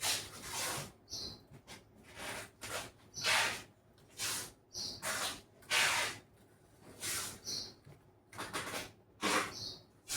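Adhesive tape being pulled off its roll in a quick series of short ripping pulls, about one a second or faster, some with a brief high squeak.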